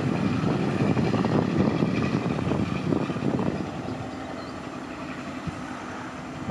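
Diesel passenger train pulling away down the track, its low engine rumble fading over the last few seconds.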